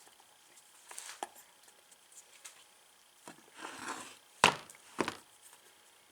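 Hand work on a golf cart starter/generator: light clicks, a brief rustle, then two sharp knocks about half a second apart as parts are handled and set in place.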